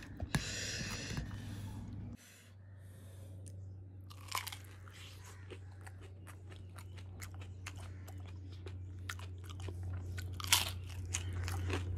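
A person biting and chewing crisp fried puris topped with shredded cucumber and sauce, close to the microphone: a run of sharp crunches and crackles, with louder bites about four seconds in and again near the end, over a steady low hum.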